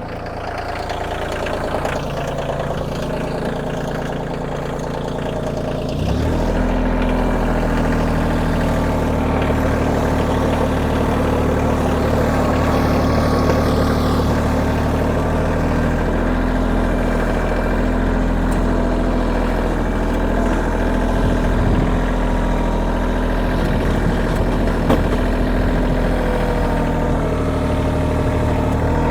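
Kioti compact tractor's diesel engine running steadily near idle, then speeding up about six seconds in and holding at the higher speed.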